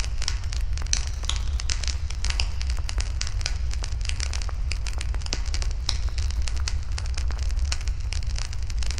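Wood fire burning in a fire pit, crackling with a dense, irregular run of small pops over a steady low rumble.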